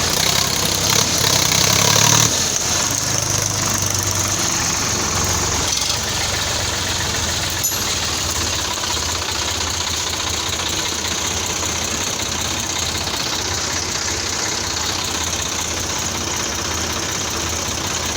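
Sonalika tractor's diesel engine running with a knocking clatter, louder for the first two seconds and then steady, with a single sharp click about eight seconds in.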